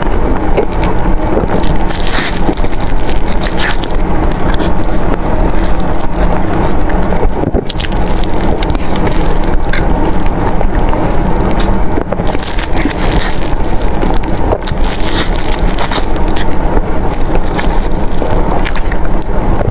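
Loud, close-miked eating sounds: chewing and biting into soft desserts, with dense crackly clicks throughout.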